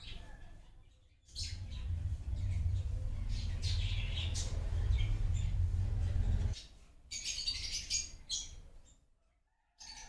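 Small birds chirping, over a loud low rumble that sets in about a second and a half in and stops at about six and a half seconds; a burst of high chirps follows near the end.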